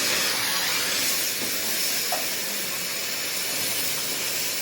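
A steady, loud hiss, like a jet of air or gas.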